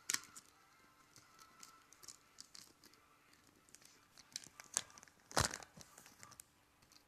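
Packaging being handled and unwrapped: scattered light crinkles and rustles, with one louder crackle about five seconds in.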